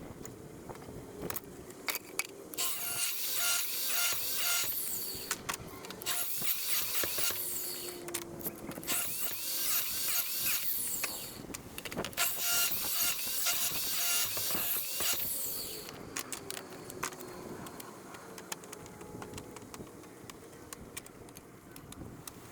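Sawing wood in four runs of a few seconds each, each run with a quick, even pulse of strokes.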